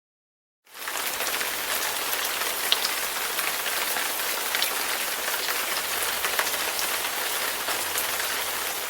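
Dense, steady crackling hiss, like rain pattering on a surface, cutting in abruptly about a second in and fading out near the end.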